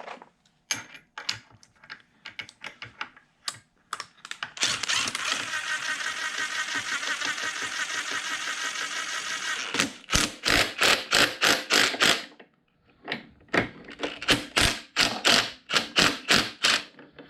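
Ratchet wrench clicking as it turns the centre bolt of a case separator and crank removal tool, pressing the crankshaft out of the moped engine's crankcase. A few scattered clicks come first, then about five seconds of fast continuous ratcheting, then strong regular ratchet strokes at about four clicks a second with a brief pause in between.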